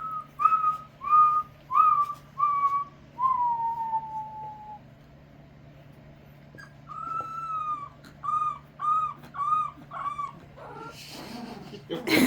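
A man whistling with dogs howling along: a string of short notes and a long falling note, then a long note and four short arched calls at much the same pitch. A louder, rougher burst comes near the end.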